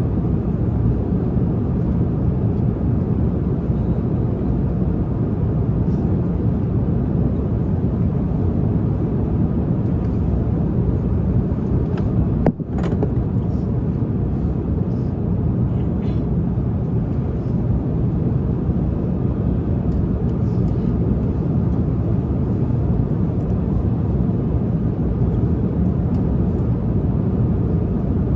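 Steady low roar of an airliner cabin in flight, the jet engine and air noise holding even throughout, with a brief sudden drop about twelve seconds in.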